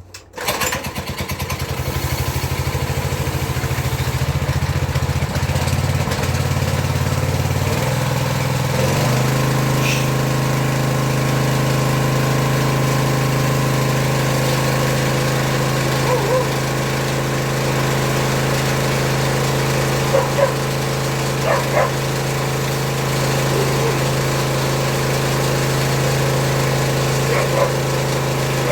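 Kubota GS200 petrol engine driving a pressure-washer pump, catching right at the start and running; about nine seconds in its speed rises and it settles into a steady run.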